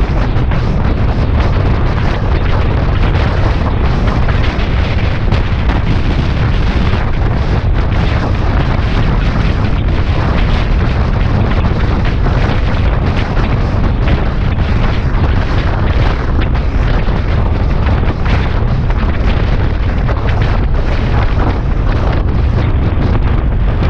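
Heavy wind buffeting on the microphone over the steady running of a Suzuki Bandit 650S motorcycle's inline-four engine while riding.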